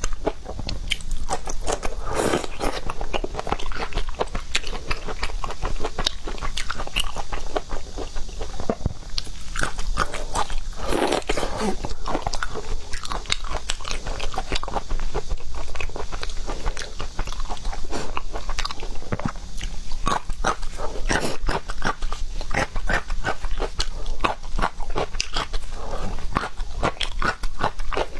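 Close-miked eating of seafood: a dense, continuous run of chewing and crunching clicks, with louder bites about 2 and 11 seconds in.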